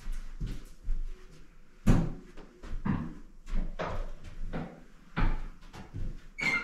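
A series of irregular knocks and thumps, roughly one a second, with the loudest about two seconds in.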